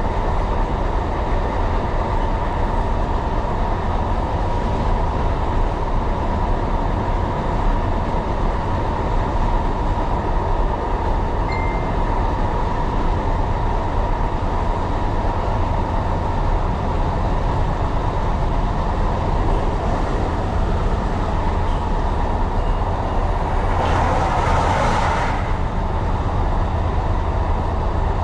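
Tyne & Wear Metro train running along the track: a steady rumble with a faint steady hum above it. About 24 seconds in there is a brief rushing noise.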